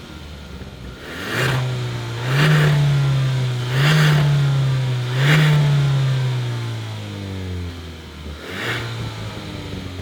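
A 1.6-litre turbo-petrol four-cylinder car engine accelerating hard under full throttle. Its pitch jumps three times about a second and a half apart, which marks gear changes of the dual-clutch gearbox. The engine is loudest through the middle of the run, then eases off near the end.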